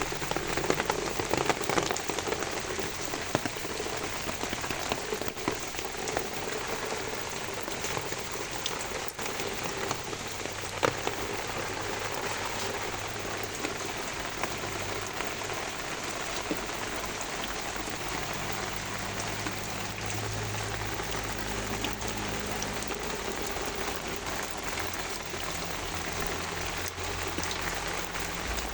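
Steady rain falling on plants, a dense even patter with individual drops ticking sharply now and then, a little heavier in the first couple of seconds.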